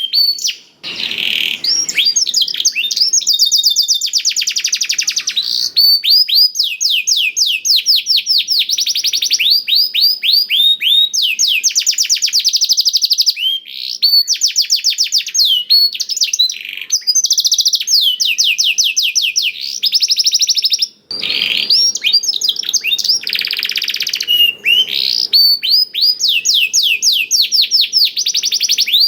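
Domestic canary singing a long, continuous song of fast trills, each a rapid run of repeated sweeping notes, with brief pauses about a second in and again near the three-quarter mark. The song is filled with phrases learned from the blackthroat (black-throated canary).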